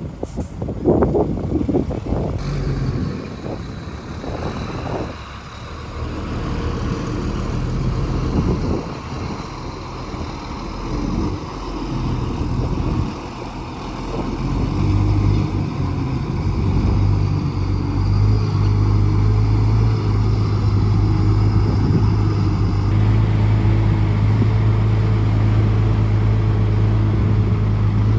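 The diesel engine of heavy earthmoving machinery working, with irregular knocks and clanks in the first few seconds. About halfway through, the engine settles into a louder, steady note.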